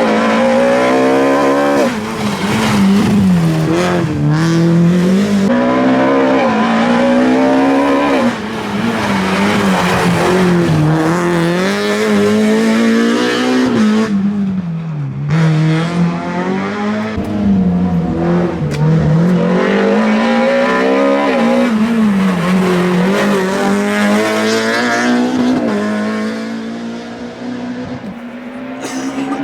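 Peugeot 306 A7-class rally car's engine, heard onboard, revving hard and rising and falling over and over as the driver accelerates, shifts and lifts for corners. It dips briefly about 2 and 8 seconds in and goes quieter near the end.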